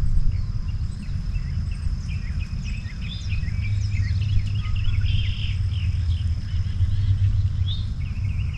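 Outdoor ambience: birds chirping in short calls and an insect's steady high-pitched drone, over a loud, continuous low rumble.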